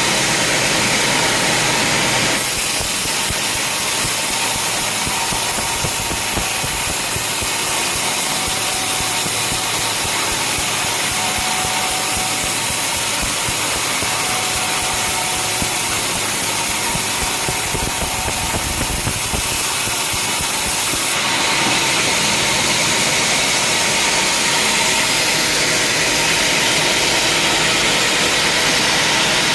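Sawmill machinery running, a steady engine-and-saw noise cutting wood. The sound changes abruptly about two seconds in and again about twenty seconds in.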